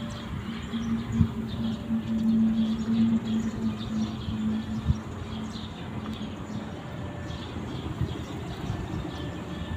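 Distant diesel passenger train approaching: a steady low hum from the locomotive that holds for about seven seconds, loudest two to three seconds in, over a faint rumble.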